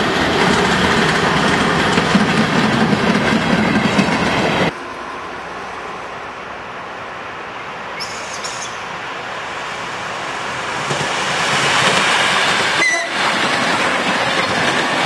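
A train passing at speed, its wheels clattering and rumbling on the rails. It cuts off abruptly a few seconds in. Then an electric suburban train approaches and passes, growing steadily louder.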